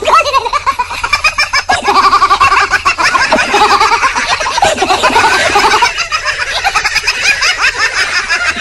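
High-pitched laughter in rapid repeated syllables, the pitch jumping up and down throughout.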